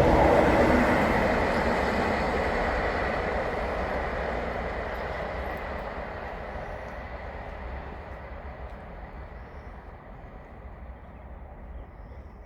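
Freight train rumbling past on the rails, loudest at the start and fading steadily as it moves away.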